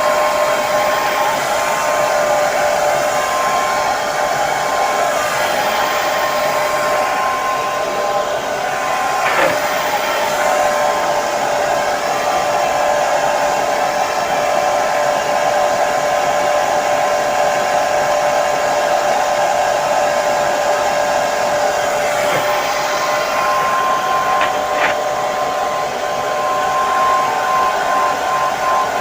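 Hair dryer running steadily: a constant rush of air with a steady motor whine beneath it.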